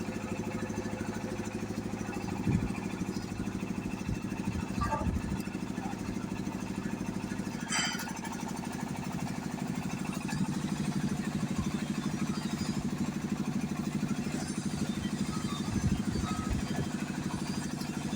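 An engine running steadily at an even speed, with a few short knocks over it.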